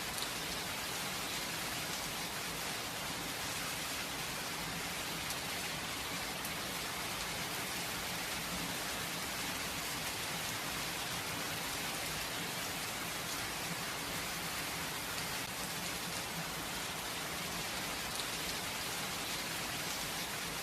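Steady rain with no thunder: an even hiss of falling rain with scattered faint drop ticks on a surface.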